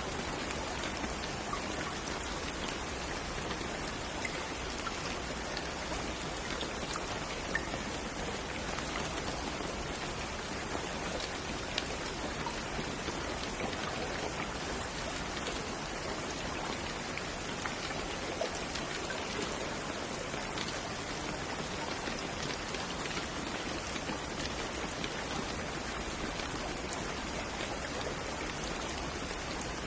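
Steady rain falling on a surface, an even hiss with scattered drops ticking and pattering through it.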